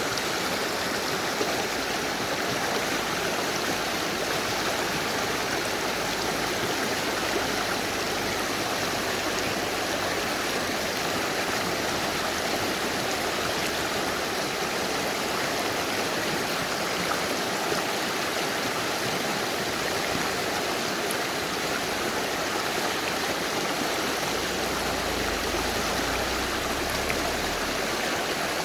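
Mountain river rushing and gurgling over rocks: a steady, unbroken wash of water noise.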